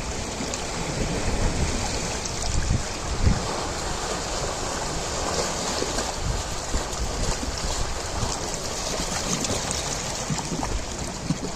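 Ocean waves: a continuous rush of surf that swells into a hissing wash through the middle. Irregular low buffeting of wind on the microphone runs underneath, strongest about three seconds in.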